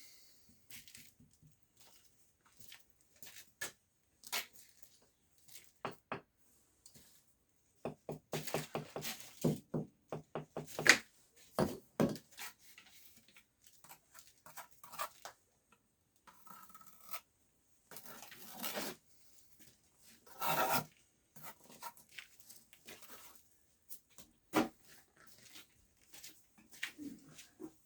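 Masonry work on a brick fireplace: irregular scrapes, rubs and knocks, with a quick run of rasping strokes and sharper knocks in the middle and another scraping stretch later.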